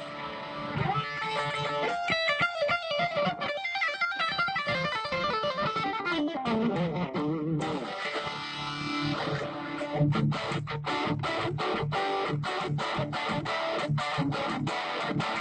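Guitar being played, most likely through an amplifier for a sound check. Fast runs of single notes come first, then from about ten seconds in a rhythm of short, sharp chord strokes several times a second.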